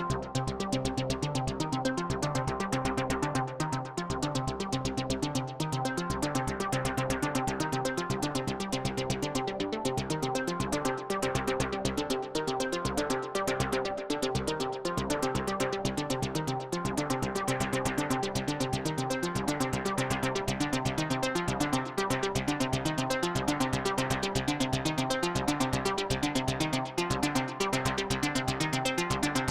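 Arturia Pigments 3 software synthesizer preset playing a fast, evenly pulsing sequenced pattern over held pitched tones.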